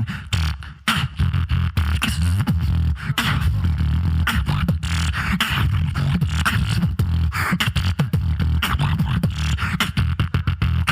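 Solo vocal beatboxing with a heavy, sustained bass line under rapid snare- and click-like hits, with a brief dip about a second in.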